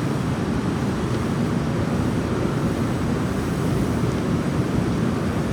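Running noise heard inside a moving train: a steady low rumble and rush of wheels and air, with no distinct events.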